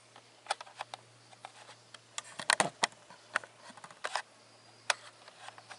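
Scattered sharp clicks and light knocks of small hard objects being handled, with a quick cluster of louder clicks about two and a half seconds in, over a faint steady hum.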